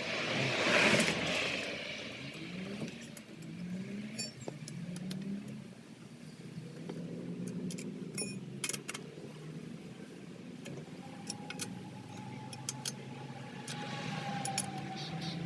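Light metallic clicks and clinks of lug nuts being threaded onto the wheel studs by hand, over a background of vehicle noise with a whoosh about a second in.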